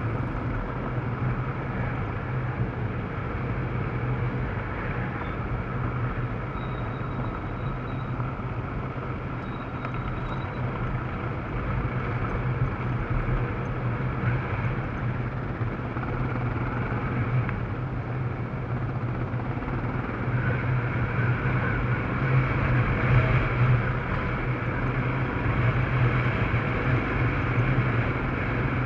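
Yamaha Serow dual-sport motorcycle's single-cylinder four-stroke engine running steadily on the move, getting a little louder in the last third.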